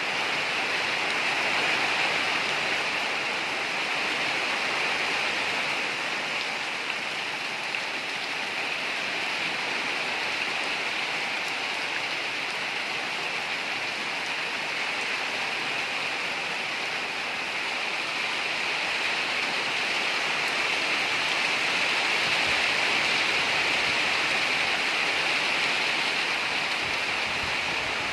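Steady morning rain falling, an even hiss with no break.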